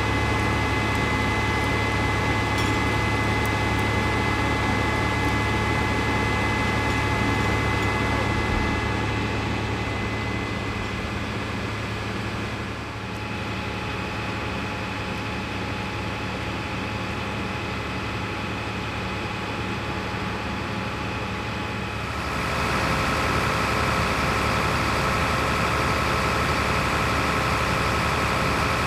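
Fire engines' motors running steadily at the scene of the fire, with several held whining tones over the engine sound. The sound changes abruptly about two-thirds of the way through.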